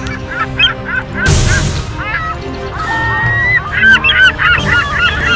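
Gulls squawking: many short rising-and-falling calls that overlap and grow busier after about three and a half seconds, with a brief burst of hiss just over a second in.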